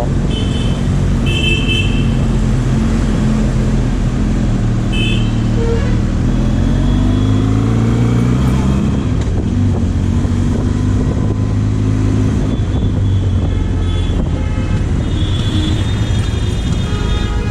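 Benelli motorcycle engine running through heavy traffic, its pitch rising and falling with the throttle, while other vehicles honk their horns in short toots several times, near the start, about five seconds in and again near the end.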